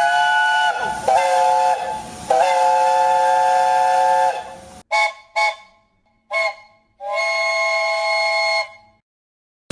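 Steam locomotive chime whistle sounding a chord of several notes at once, with a hiss of steam. It gives three longer blasts, then a few short toots, then one more long blast about seven seconds in.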